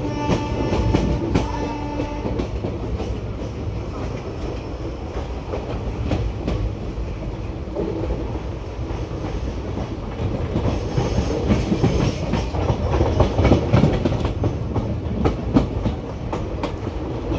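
Passenger train running, heard from an open coach doorway: a steady rumble with wheels clattering over rail joints. The clattering grows busier and louder about ten seconds in. A steady tone sounds for the first two seconds.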